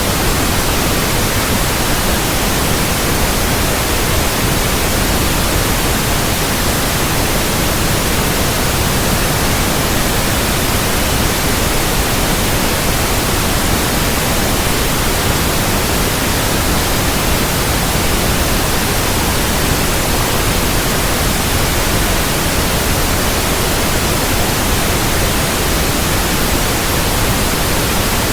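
Steady, loud synthetic white noise, an even hiss spread evenly from deep to high pitches, unchanging throughout.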